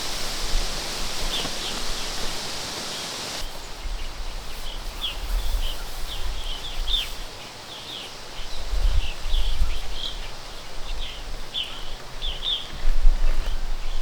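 Birds chirping outdoors in many short, repeated calls over a low, uneven rumble; a steady high hiss underneath drops away about three seconds in.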